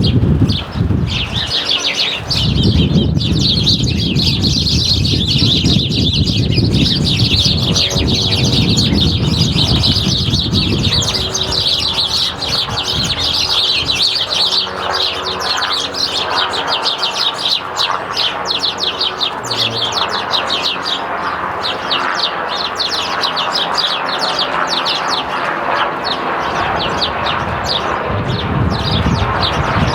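A flock of sparrows chirping, a dense unbroken chatter of many birds at once, with a low rumble beneath it for roughly the first half.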